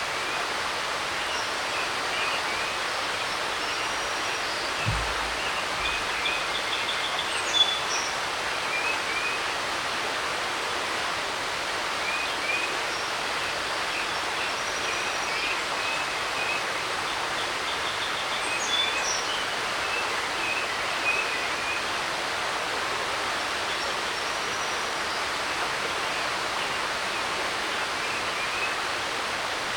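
A creek running with a steady rushing hiss, and songbirds chirping in short scattered phrases over it. A brief low thud sounds about five seconds in.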